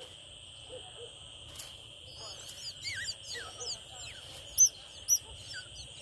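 Small birds chirping, a rapid run of short high calls from about two seconds in, with two loud sharp chirps near the end, over a steady high hum.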